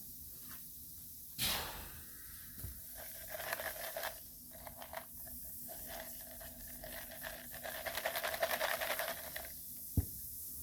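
Faint crackling and rustling, with a single knock about a second and a half in and a sharp click near the end.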